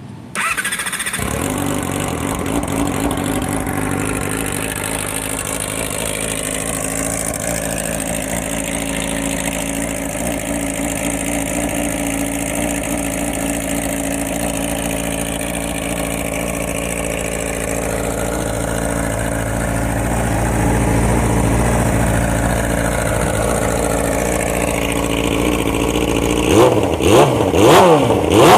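2007 Yamaha R6 inline-four sport bike with a custom Toce exhaust and no catalytic converter starting up, then idling steadily, the idle rising slightly about two-thirds of the way through. Near the end the throttle is blipped in a few quick, sharp revs.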